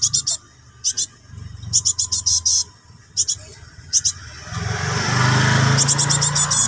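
Fledgling cinereous tit giving harsh, rapid chattering begging calls in short bursts, calling for its parent. From about four and a half seconds in, a passing vehicle engine rises and becomes the loudest sound under the calls.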